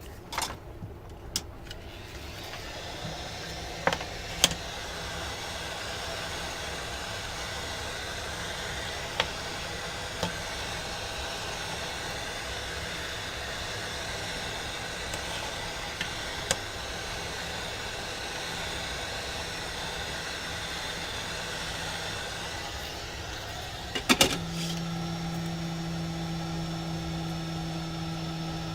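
A steady machine whir, with a few sharp clicks scattered through it. Near the end a cluster of clicks is followed by a steady low electrical hum that sets in and holds.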